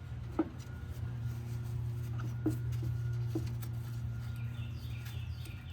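A few faint light clicks as the GM 10-bolt differential's cross-shaft pin is slid out of the carrier, over a steady low hum.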